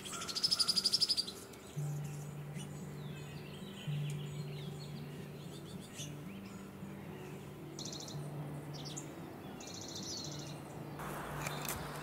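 Bird calls: a loud, fast rattling series lasting about a second near the start and two shorter rattles later, with faint chirps in between. Soft background music holds sustained low notes underneath.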